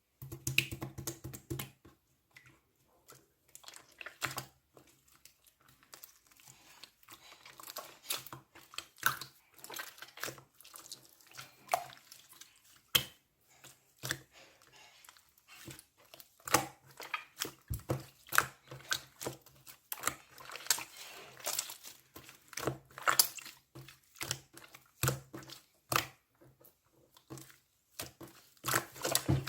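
Hands squishing and stretching slime, making irregular sticky clicks, crackles and pops.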